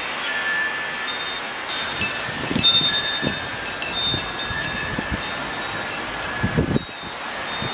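Wind chimes ringing continually as a windstorm blows, with gusts buffeting the microphone a few times.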